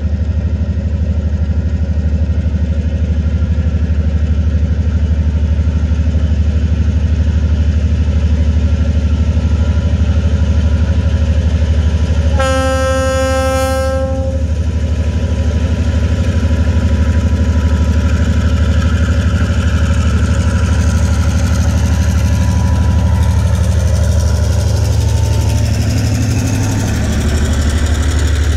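TasRail DQ-class diesel locomotive approaching a level crossing. Under the steady ringing of the crossing's warning bell, the locomotive's horn gives one blast of about a second and a half, a little under halfway through. The diesel engine and the rumble of wheels grow louder as the locomotive and its container wagons reach the crossing near the end.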